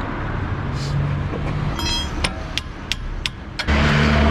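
Motor traffic running past, with a louder vehicle coming close near the end. About halfway through, a ringing click and then a few sharp clicks.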